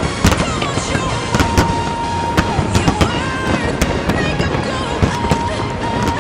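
Fireworks going off in a dense run of sharp bangs and crackles, over music with a long held melodic note.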